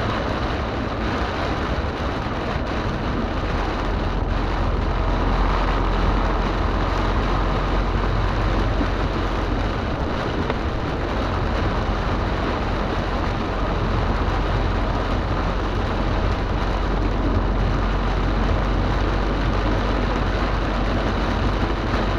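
Heavy rain on a moving car, heard from inside the cabin: a steady hiss of rain on the roof and windscreen over a low road and tyre rumble.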